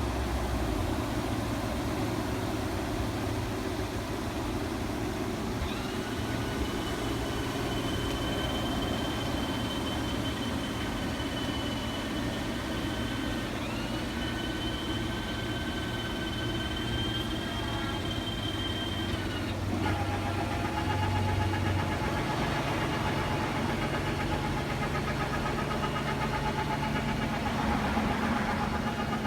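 Engine of a 2014 Chevy wheelchair-accessible truck idling steadily, with an electric motor of the powered opening mechanism whining high and steady in two long stretches, then a lower steady whine through the last third.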